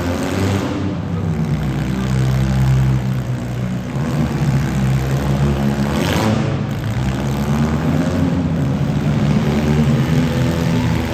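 Several demolition derby car engines running and revving together in a steady drone, with a brief harsh noise about six seconds in.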